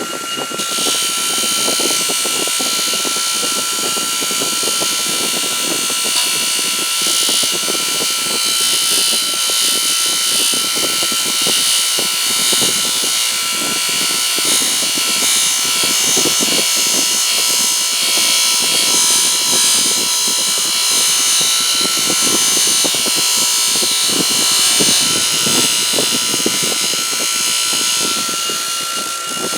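Bench-mounted motor running with a steady whine while a spinning abrasive wheel scrubs rust off a steel adjustable wrench. The loud, rough hiss of the work against the wheel comes in just under a second in and keeps going, shifting as the wrench is moved against the wheel.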